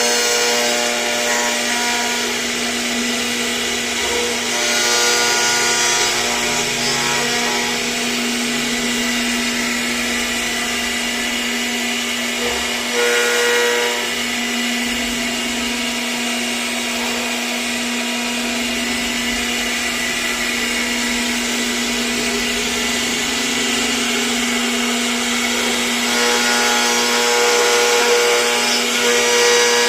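CNC router spindle running at a steady pitch while its bit cuts wood: a constant whine over a rough cutting noise.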